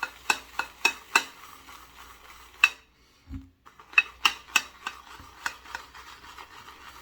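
Shaving brush whipping soap into lather in a copper lather bowl: a wet swishing with repeated sharp clanks of the brush against the metal bowl. The clanking stops briefly about three seconds in, returns, then gives way to steadier swishing near the end.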